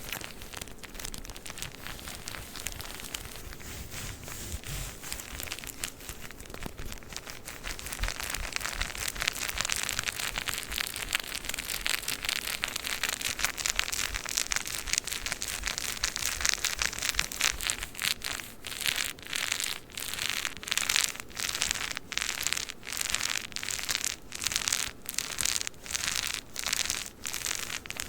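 Tissue paper on a package crinkling as it is handled, a steady rustle that turns into even rhythmic crinkles about two a second past the halfway point.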